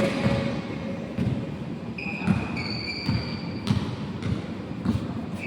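Basketball play on an indoor court: the ball thuds on the floor at an uneven pace, with short high-pitched squeaks of sneakers on the court about two and three seconds in.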